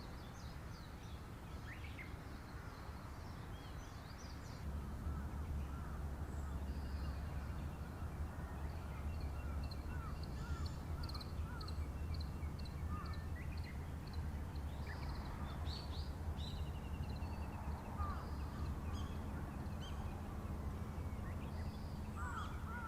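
Wild birds calling with many short chirps, and a few crows cawing, over a steady low hum that starts about five seconds in.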